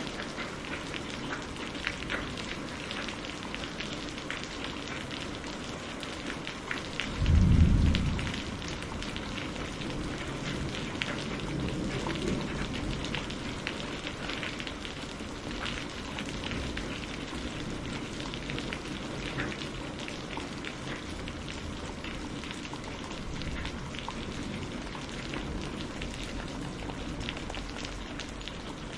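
Steady rain with many fine drop ticks. About seven seconds in, a short, loud, deep thunderclap sounds and trails off into a low rumble over the next few seconds.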